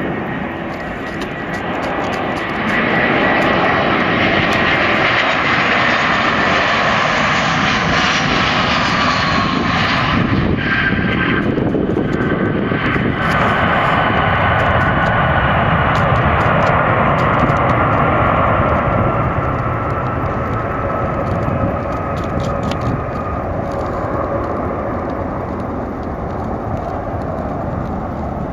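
Airbus A319-112's CFM56 jet engines passing by: a loud, steady roar whose whine slides down in pitch about ten seconds in as the airliner goes past, then slowly fades.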